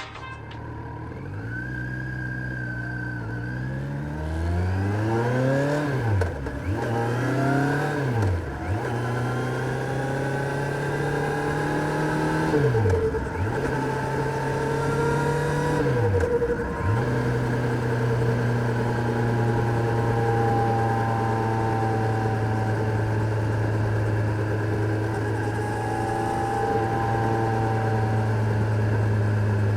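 Kawasaki Z900 inline-four motorcycle engine pulling up through the revs, its pitch rising, then dropping sharply and climbing again four times as it shifts gear, before settling into a steady cruise for the second half.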